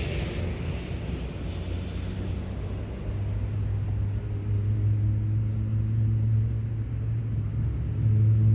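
An engine's low, steady drone with a clear hum and overtones, growing louder about three seconds in and again near the end.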